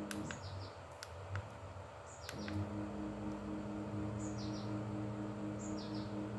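A small bird chirping every second or two, each call a quick downward note followed by a short trill. Underneath runs a steady low electrical hum that cuts out for about two seconds near the start.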